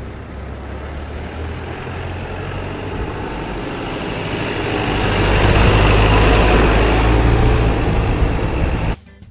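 Hino 300 Series truck's four-cylinder turbo diesel driving, its rumble and road noise growing louder over several seconds to a peak before cutting off suddenly near the end.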